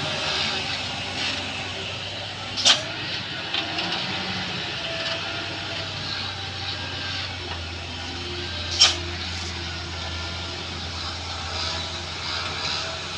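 Truck engine running with traffic noise as it works through a bend, with two short sharp bursts, one about 3 seconds in and one about 9 seconds in.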